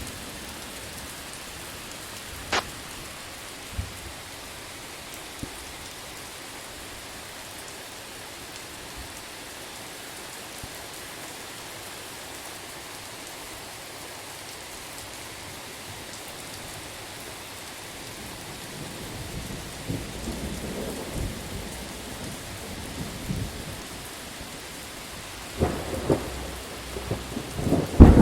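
Steady heavy rain hiss, with a single sharp crack a couple of seconds in. Thunder starts to rumble in the last third and grows, with sharp claps near the end.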